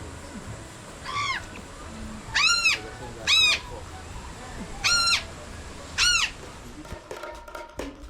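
A bird calling five times, loud short calls that each rise and fall in pitch, spread over about five seconds.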